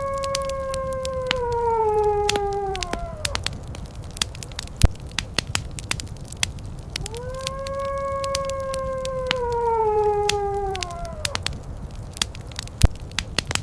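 Fireplace crackling steadily over a low rumble, with two long howls that rise quickly, hold a steady pitch and then slide down. One fades out about three seconds in, the other runs from about seven to eleven seconds, and a third begins right at the end.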